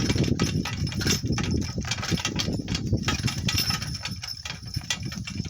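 Donkey-drawn cart rolling over rough ground: a steady low rumble with quick, irregular knocks and rattles.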